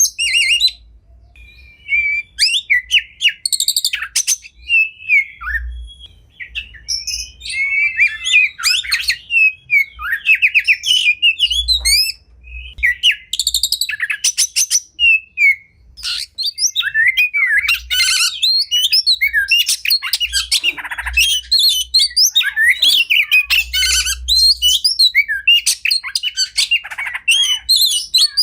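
Oriental magpie-robin (kacer) singing a long, varied song of rapid whistles, chirps and trills, with a short pause about a second in and a brief lull near the middle.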